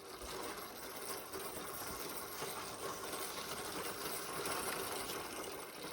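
Minibike being shaken to check for gas after it stalled, making a steady rattling and sloshing noise. The rider suspects it has run out of fuel but hears fuel still in the tank.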